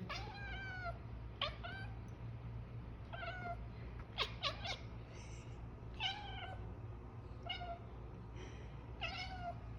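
Pet cat giving about nine short meows, several falling in pitch, spaced a second or so apart: the excited calls of a cat watching a bird it wants to catch.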